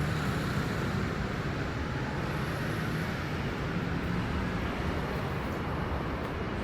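Steady city street traffic noise: a constant low rumble of passing vehicles with an even hiss over it.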